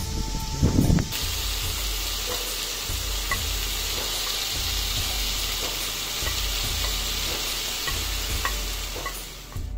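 Chicken pieces and mushrooms sizzling steadily in a hot frying pan while more fried mushrooms are spooned in from a plate, with a few small clicks of the spoon against the plate. A couple of dull knocks come about a second in, and the sizzle fades just before the end.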